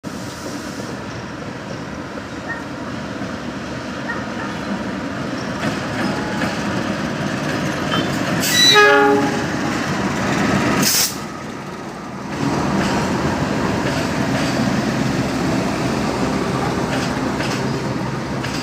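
Mutiara Selatan passenger train arriving at a station: a steady rumble of the moving train, with a horn blast lasting about a second some eight and a half seconds in, the loudest moment, and a brief sharp high noise about eleven seconds in.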